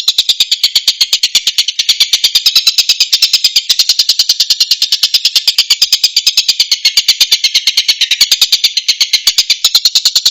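Tengkek buto kingfisher calling: a fast, unbroken rattle of short, sharp, high notes, about eight a second, looped as a masteran recording for teaching cage songbirds.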